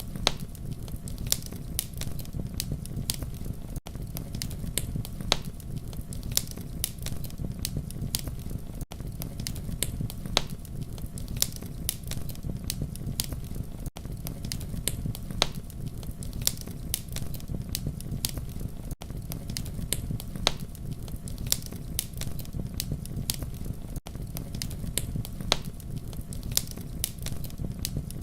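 Campfire burning with a steady low rumble and frequent sharp crackles and pops. A brief gap recurs about every five seconds, as in a looped recording.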